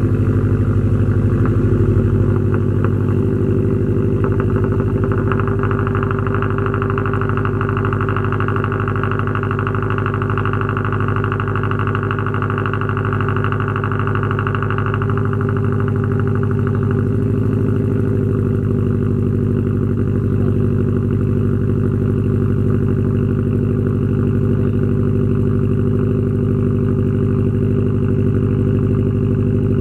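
Subaru WRX STI's turbocharged 2.5-litre flat-four idling steadily just after a cold start, through a straight-piped 3-inch exhaust on the stock downpipe.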